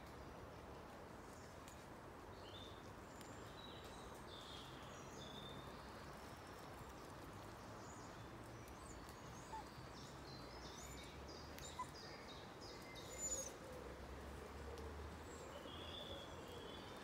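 Woodland birds chirping and calling faintly, with many short notes scattered throughout and a louder whistled note about thirteen seconds in, over a steady low background rumble.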